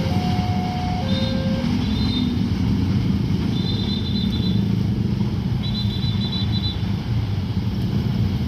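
Level-crossing warning alarm ringing its alternating two-note chime, which stops about a second and a half in, over a steady low rumble of road vehicles; short high double beeps sound several times.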